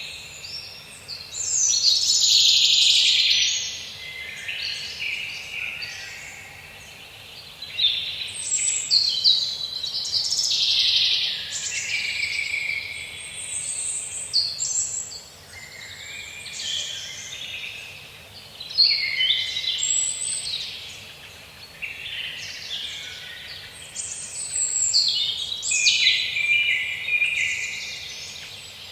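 Several songbirds singing and calling over one another, their songs coming in waves every few seconds, over a faint steady hiss.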